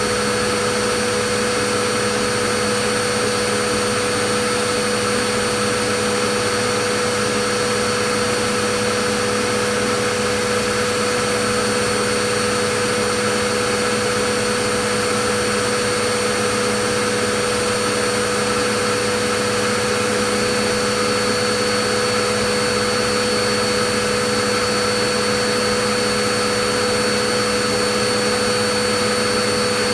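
Vacuum cleaner motor running steadily: an even rushing of air with a constant hum and a few steady whining tones over it.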